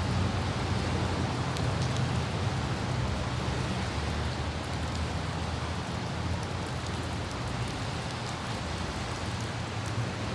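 Light rain hissing steadily over a low, constant rumble of a car driving on wet city roads, with faint scattered raindrop ticks.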